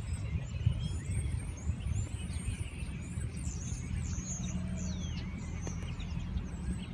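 Scania P230 truck's diesel engine idling, a steady low rumble, with birds chirping over it.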